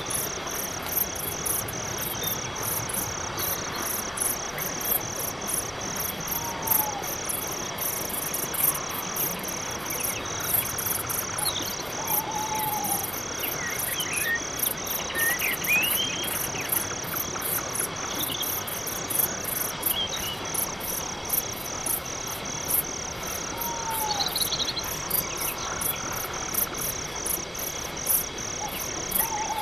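Night-time insect chorus: crickets chirping steadily, a high pulsed chirp repeating about one and a half times a second over a faster, higher insect trill. A few short sliding calls from other animals break in now and then, four of them lower and falling.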